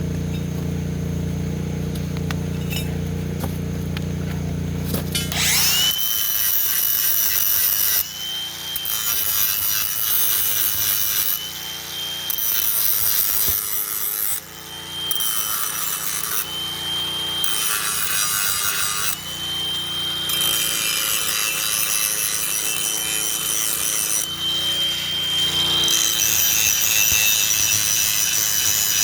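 A steady low hum, then about six seconds in a power tool spins up with a rising whine. It grinds and cuts steel in long stretches with short pauses, its high whine running under the grinding.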